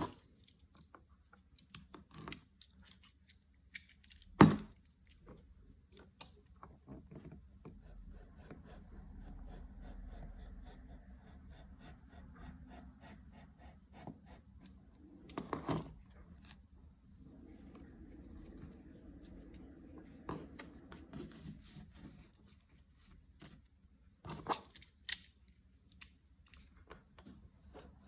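Small handling sounds from restoration work: scattered light clicks and scrapes, with a sharp knock about four and a half seconds in and smaller knocks near the middle and toward the end.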